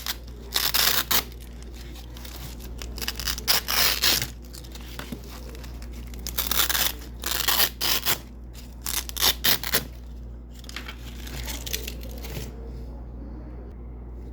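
Double-sided hook-and-loop (Velcro) strips ripped apart from white hook tape: crackly ripping in five or six short bursts, with quieter scratchy stretches between and after them. A steady low hum runs underneath.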